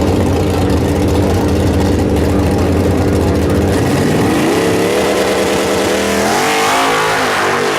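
Car engine running steadily at low revs, then about four seconds in it accelerates hard: the pitch climbs, levels off briefly, then climbs again.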